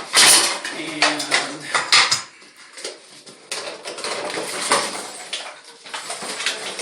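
Hard parts and tools clattering and knocking against a porcelain toilet tank while its old flush valve is taken out, with a burst of sharp knocks in the first two seconds and rougher handling noise later.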